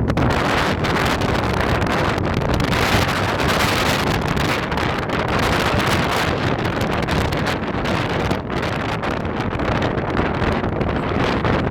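Strong dust-storm wind blowing hard against the microphone, a continuous rushing roar that swells and eases in gusts.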